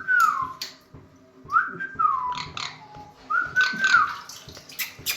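Three whistled notes in a row, each sliding up, holding briefly, then gliding down, with short sharp sounds in between.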